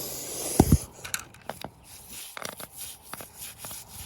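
Toy cars being handled during pretend washing: a short hiss, then two heavy thumps about half a second in, followed by scattered light clicks and scrapes.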